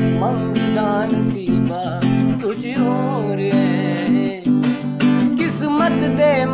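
Acoustic guitar strumming steady chords while a singer holds long, wavering notes that bend up and down, without clear words.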